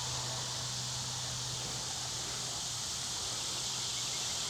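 Steady insect chorus, an even high-pitched buzzing haze, with a low steady hum beneath it.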